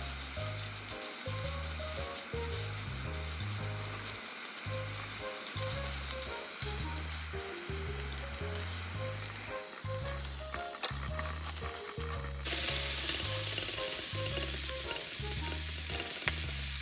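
Food sizzling as it fries in a hot pan, a steady hiss that gets louder about twelve seconds in, under light background music with a simple melody and bass.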